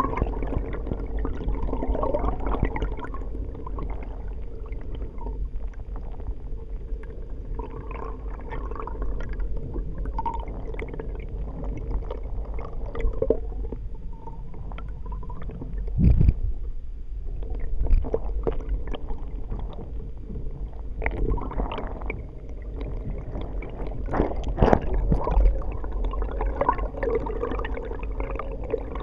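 Water gurgling and sloshing, heard muffled through an underwater camera, with a few low thumps about 16, 18 and 25 seconds in.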